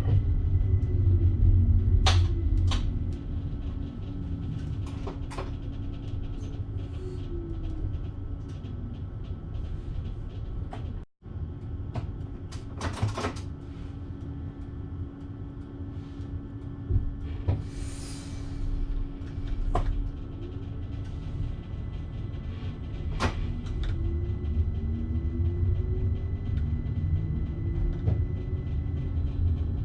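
Electric passenger train running, heard from the driver's cab: a steady low rumble with scattered sharp clicks and knocks. Motor tones glide in pitch near the start and again in the last few seconds, and there is a short hiss of air about 18 seconds in.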